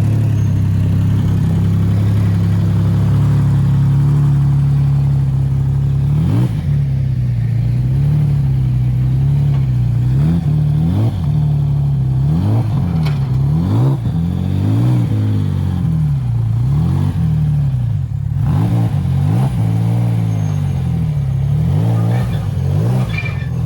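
Porsche 996 rally car's flat-six engine being driven hard. It holds steady revs at first, then from about six seconds in rises and falls over and over through gear changes and throttle lifts.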